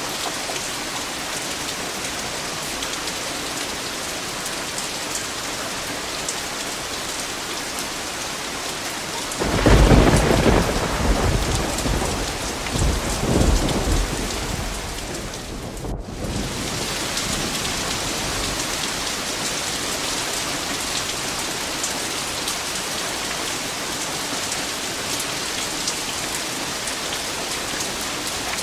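Steady heavy rain falling, with a clap of thunder about a third of the way in that rumbles on with a second swell for several seconds before fading back under the rain.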